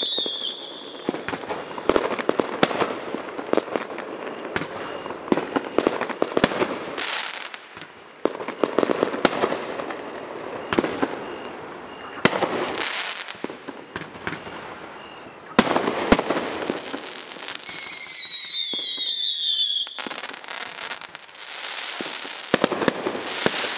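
A 28-shot consumer fireworks cake firing its shots: a run of sharp pops and dense strobe crackle from the bursting stars, with one whistling tail falling in pitch about three-quarters of the way through.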